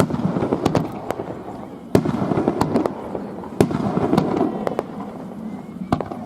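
Aerial fireworks bursting overhead: a string of sharp bangs, the biggest clusters near the start, about two seconds in and about three and a half seconds in, with continuous crackling in between.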